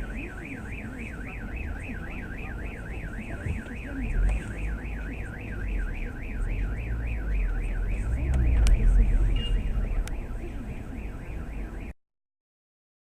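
Car alarm siren warbling rapidly up and down, about four sweeps a second, over a low rumble. It stops abruptly near the end.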